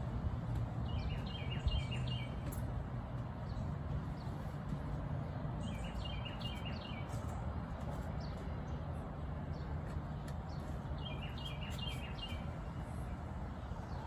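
Songbird singing a short phrase of quick, rapidly repeated notes, three times about five seconds apart, with scattered short chirps from other birds, over a steady low background rumble.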